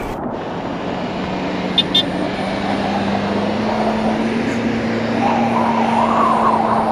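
Small hatchback's engine running under load as it drives through deep snow, its pitch climbing slowly and steadily, over a steady rush of wind. Two short clicks about two seconds in.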